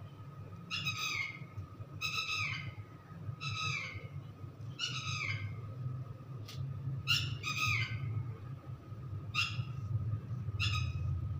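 A bird calling over and over: short, falling, whistle-like calls, roughly one a second, over a low steady hum.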